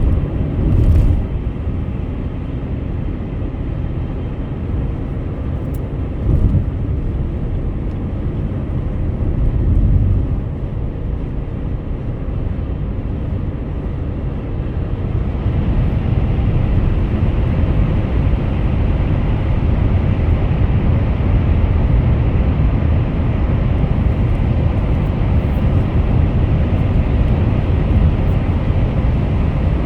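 Car driving on a highway: steady low road and tyre rumble. There are a few brief louder thumps in the first ten seconds, and the noise grows a little louder about halfway through.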